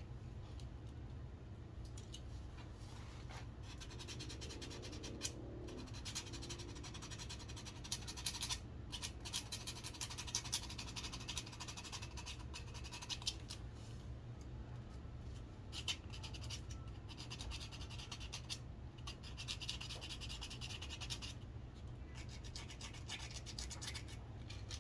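Sandpaper rubbing along a wooden walking stick in quick back-and-forth strokes, coming in stretches of a few seconds with short pauses, busier from about a third of the way in. A steady low hum runs underneath.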